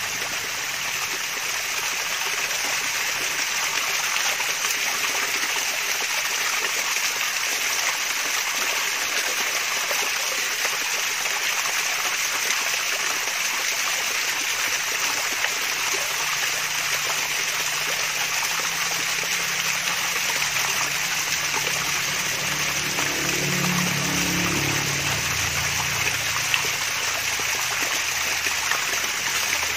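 Small waterfall trickling and splashing: a steady, even rush of flowing water.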